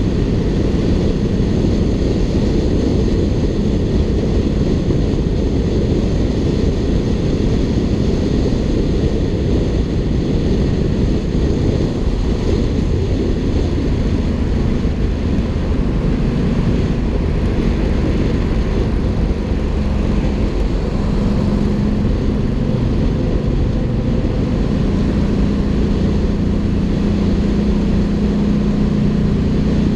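Ducati Hypermotard 796's air-cooled L-twin running through an Arrow aftermarket exhaust at fairly steady revs, a dense low engine-and-exhaust note with a steady hum that firms up a little about two-thirds of the way in.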